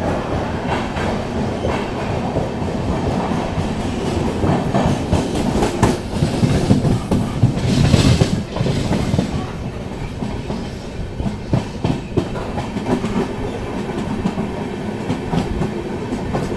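Passenger express train running at speed, heard from the open coach doorway: a steady wheel rumble with the clickety-clack of wheels over rail joints and points. The sound swells to a louder rush about halfway through.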